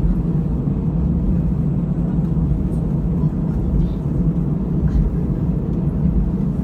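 Steady low rumble in the passenger cabin of an Airbus A320-214 taxiing after landing, its engines at idle, with occasional low bumps from the wheels.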